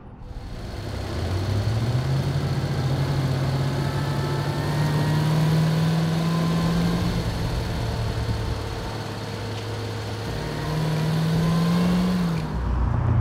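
Cadillac CT5-V Blackwing's supercharged 6.2-litre V8 pulling hard, its note climbing in pitch for several seconds. It eases off about seven seconds in, then climbs again and drops away near the end.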